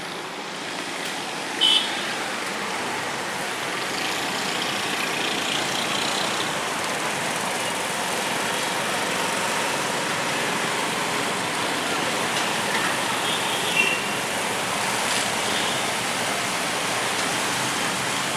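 Steady hiss of rain mixed with road traffic on wet streets. Two brief sharp sounds stand out, one about two seconds in and one near fourteen seconds.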